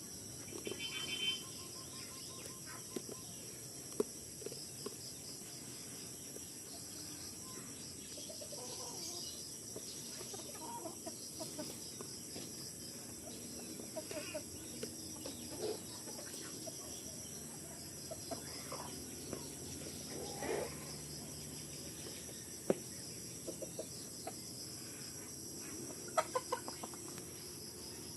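Farmyard animals giving short clucking calls now and then, over a steady high insect drone.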